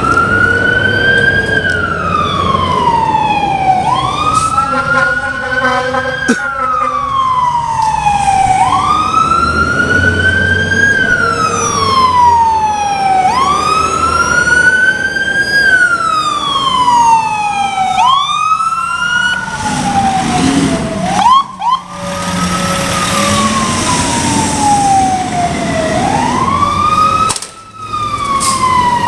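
Fire engine siren wailing, each cycle rising quickly and then falling slowly, repeating every four to five seconds. A horn sounds over it about five seconds in.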